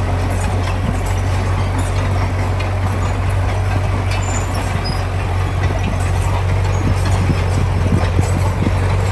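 Heavy diesel engine of construction machinery running steadily with an even low hum, with faint rattling over it.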